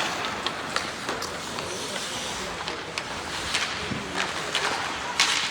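Ice hockey play: skates scraping and cutting on the ice and sticks and puck clacking over a steady rink hiss, with a louder skate scrape near the end and faint distant shouts.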